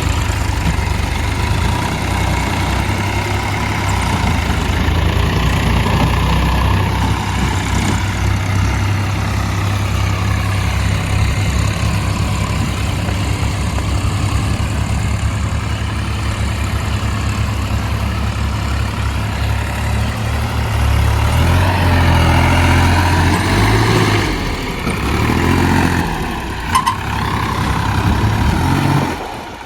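Tractor diesel engine running steadily with an even low throb, its pitch rising and falling in the last third as it is revved while the loader works.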